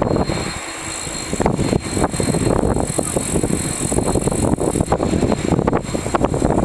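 Boeing 737-300's CFM56 jet engines running on the ground run for takeoff: a loud, steady low rumble with a thin high whine, under constant fast rattling and bumping.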